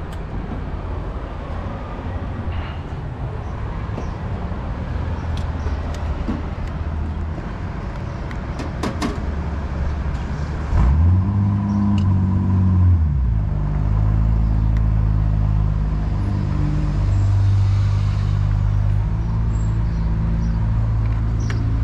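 A motor vehicle's engine running with a steady low drone, with a few sharp clicks early on. About eleven seconds in, its pitch rises and falls, then it settles into a louder, steady drone.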